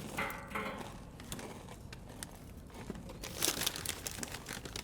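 Crinkly snack-chip bag being handled, a few sharp crinkles, loudest about three and a half seconds in, after a brief pitched sound at the very start.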